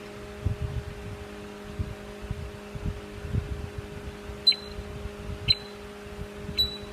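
Three sharp metallic clicks about a second apart in the second half, typical of a micrometer's ratchet thimble closing on a turned steel part. They sit over a steady machine-shop hum and soft handling knocks.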